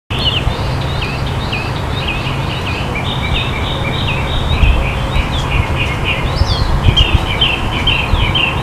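Several small birds chirping in a dense, steady chatter of short, quick notes, over a continuous low rumble.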